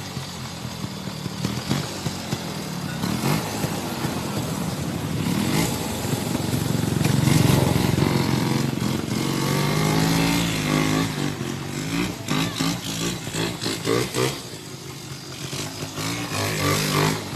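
Passing motor traffic: vehicle engines, likely motorcycles, rising and falling in pitch as they go by, loudest about seven or eight seconds in.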